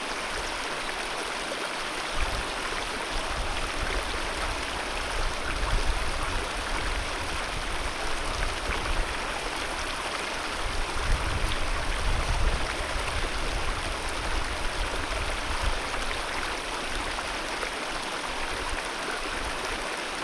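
Alpine mountain river rushing steadily, with a few swells of deeper low rumble.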